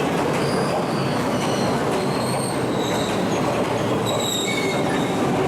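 A train running through the station with a steady rumble of wheels on rails. Its wheels give several brief high-pitched squeals against the rails.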